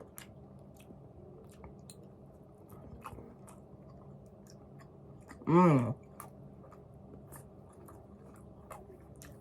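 A person chewing a mouthful of crunchy salad (lettuce, cucumber, peppers) with many small sharp crunching clicks, and a brief vocal sound about halfway through.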